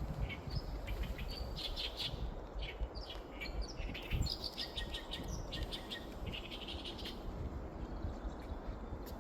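Wild birds chirping and singing, many short calls and quick trills overlapping, over a steady low rumble.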